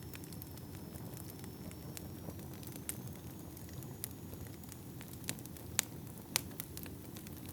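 Fire burning: a steady low rumble of flames with scattered sharp crackles and pops. Several louder pops come in the second half.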